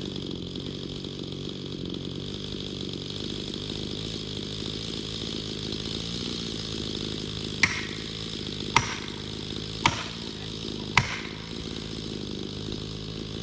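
Chainsaw engine running steadily. About halfway through come four sharp strikes roughly a second apart, each ringing briefly.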